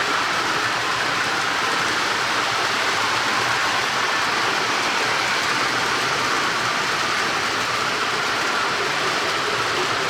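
Model train running on its track: a steady whirring rattle of small wheels on rails with a faint constant motor whine.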